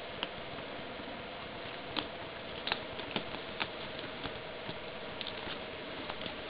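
A kitten playing with a laundry hamper: scattered light taps and scratchy clicks of paws and claws, clustered about two to four seconds in, over a steady hiss with a faint hum.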